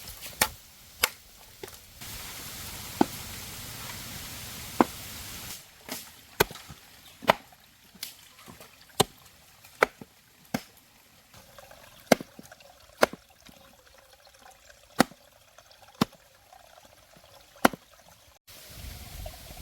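Knife chopping on a cutting board, single sharp strokes about once a second, with a steady hiss for a few seconds near the start.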